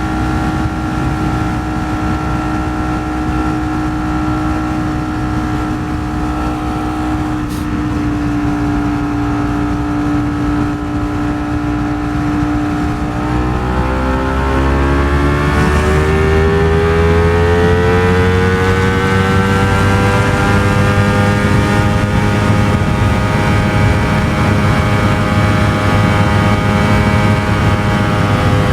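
Ducati Streetfighter V4 S's V4 engine running steadily on the road. About halfway through it accelerates, the pitch rising for several seconds and then holding higher, over low wind rumble.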